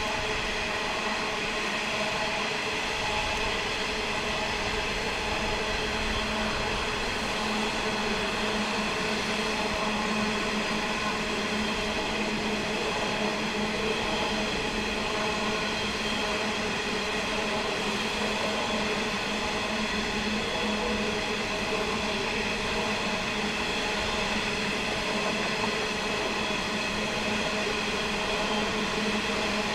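Diesel train engine running at a steady, even note.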